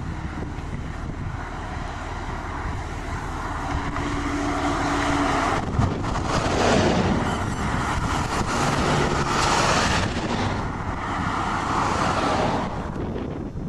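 Rushing wind and vehicle noise, a loud even rush with a faint hum under it. It swells louder about halfway through, then falls away near the end.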